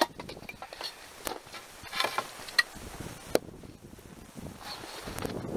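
Firewood being split and handled with an axe: a sharp wooden knock at the start, then a few scattered lighter knocks and clatters of wood.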